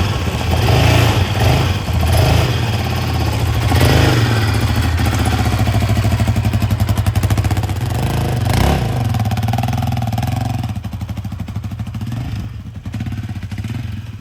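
Yamaha Raptor 700R quad bike's single-cylinder four-stroke engine running, blipped on the throttle several times in the first few seconds and once more about two-thirds of the way through. It drops lower and quieter near the end.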